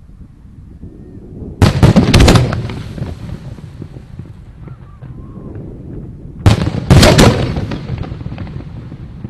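Aerial firework shells bursting in two volleys about five seconds apart. Each volley is a sharp bang followed by a quick cluster of cracks, then a rumbling echo that fades.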